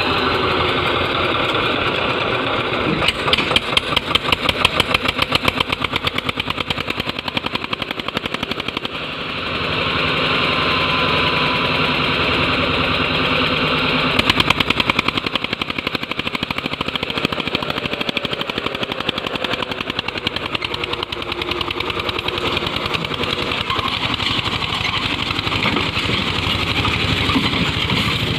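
Eicher 242 tractor's single-cylinder diesel engine running with a steady chugging beat. Its firing pulses stand out more strongly a few seconds in and again about halfway through.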